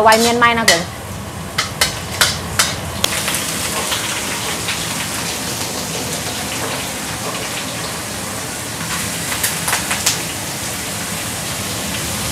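Food sizzling steadily in a hot pan, with a few sharp clicks of a utensil against the pan in the first few seconds.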